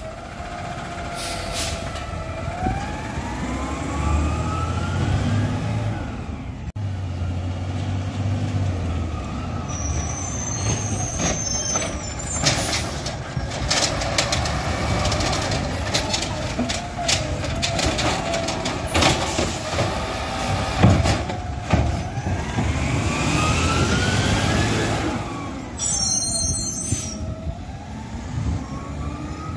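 Garbage truck's diesel engine running under load, with a whine that climbs and falls as it revs, and several short hisses of air from its brakes.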